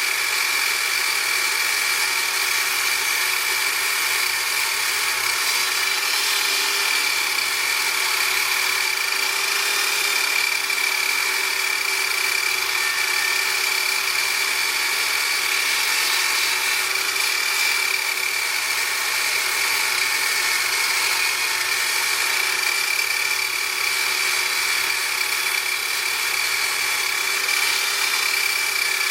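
An electric power tool's motor running steadily at constant speed, with a high whine, and no cutting strokes or pauses.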